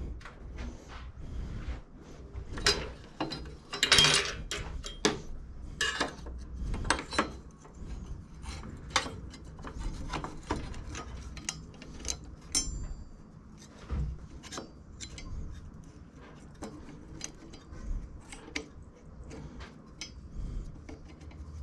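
Hand tools and metal parts being worked on a lawn mower's front height adjuster: irregular clicks, knocks and rattles, with a longer scrape about four seconds in.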